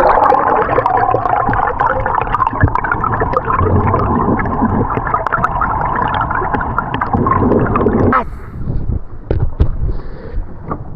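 Muffled gurgling and bubbling of water, heard with the microphone underwater, with many small crackles; it cuts off suddenly about eight seconds in, leaving quieter clicks and splashy noise.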